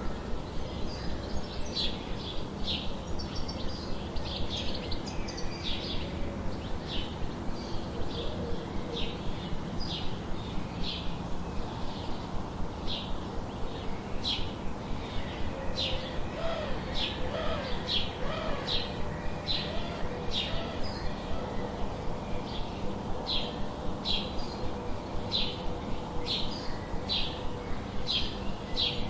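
A bird chirping over and over, short high chirps about once or twice a second, over a steady background hiss.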